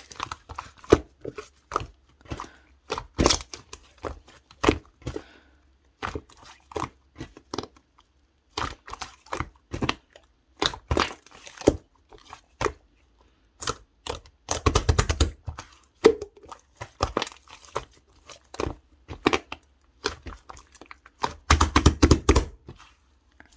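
Pink clay-mixed slime being squished and poked by hand: a run of short sticky pops and clicks, with two denser spells of crackling partway through and near the end.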